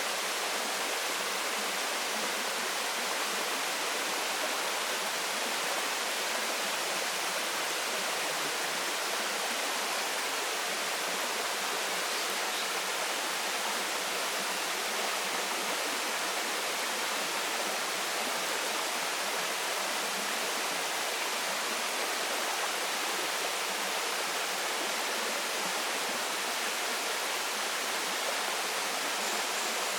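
Waterfall pouring steadily into a stream, a constant even rush of water.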